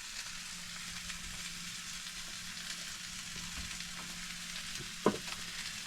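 Steak, onions and green peppers sizzling in a frying pan: a steady hiss, with a faint low hum underneath.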